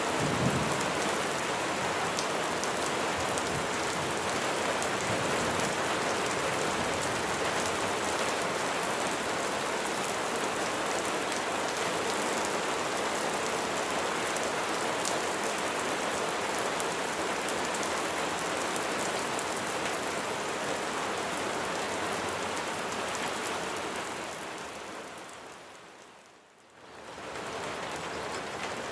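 Steady rain falling, a dense hiss with scattered drop ticks. Near the end it fades down to almost nothing and swells back about a second later.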